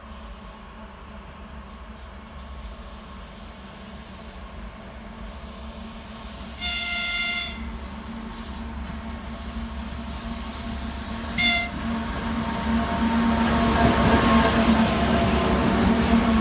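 Locomotive-hauled train approaching and passing close by, its running noise growing steadily louder. The locomotive sounds a high-pitched whistle twice: a long blast about seven seconds in and a short one about four seconds later.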